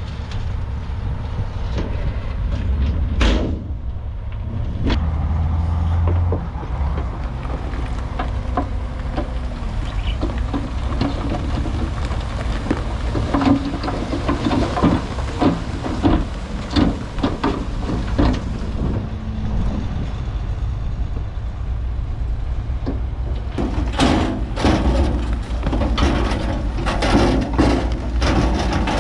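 Heavy diesel earthmoving machinery running under load, a steady low rumble, with repeated knocks and clatter that come thickest in two spells in the second half.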